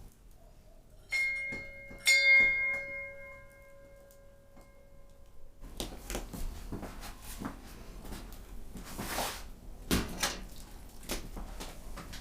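Two ringing clinks about a second apart, as of tableware being struck, the second louder and ringing on for a few seconds. After that come light clatter and knocks of handling.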